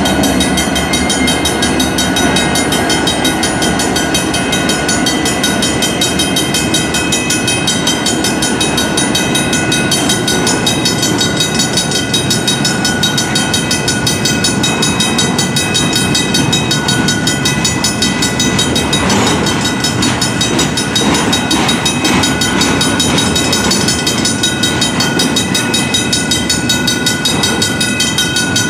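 Double-stack intermodal freight train rolling slowly past on a slow order, its wheels rumbling and clacking over the rails. The crossing's Griswold mechanical bells ring steadily throughout, with a few louder clanks about two-thirds of the way through.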